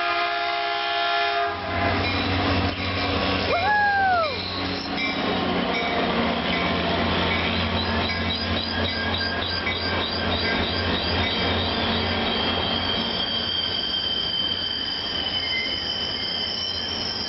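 Caltrain F40 diesel locomotive's horn sounding a chord that cuts off about a second and a half in, then the train passing close with the diesel engine's low hum and wheels clicking over the rail joints. A single whooping shout rises and falls near four seconds in, and a high steady wheel squeal sets in for the last few seconds.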